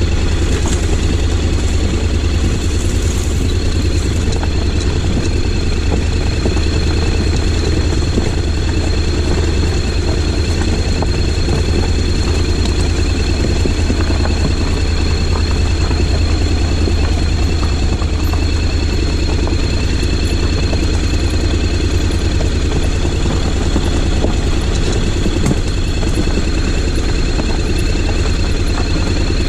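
Honda X-ADV 750's parallel-twin engine running at an even, steady pace, a constant low drone with no revving, under a thin steady high whine.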